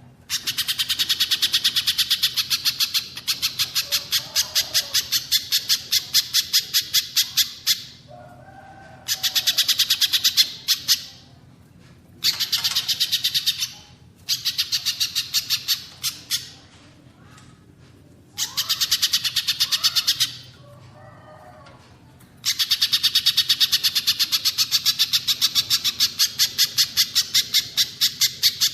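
Recorded calls of a little spiderhunter and a cililin, the songbird calls used as a masteran training track. Rapid trains of sharp, high notes come several a second in long bursts, broken by short pauses. Fainter, lower calls sound in some of the pauses.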